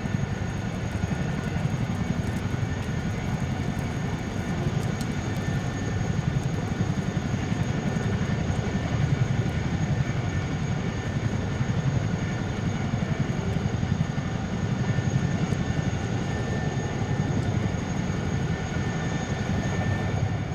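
Jet engine noise of the Kawasaki EC-1, a C-1 transport with two Pratt & Whitney JT8D turbofans, flying its display: a steady low rumble with faint high whine tones, unbroken throughout.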